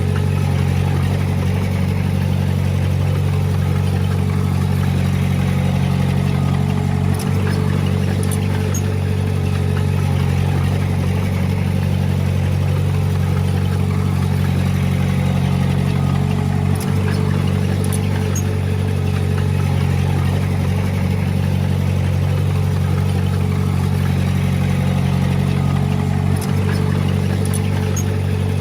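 Komatsu D20P bulldozer's diesel engine running steadily, with a brief dip about every nine to ten seconds.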